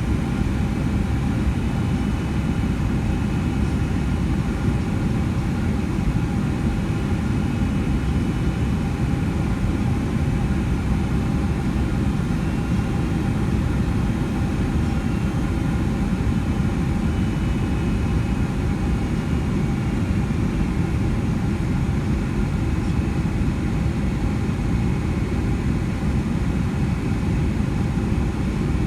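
Steady jet engine and airflow noise inside the cabin of a Boeing 757-200: a constant low rumble with faint steady whining tones over it, with no sudden changes.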